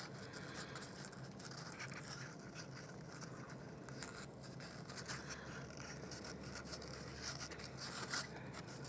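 Faint rustling and scratching of yarn being threaded through a hole in a cardboard base and tied in a knot, with a few light handling clicks.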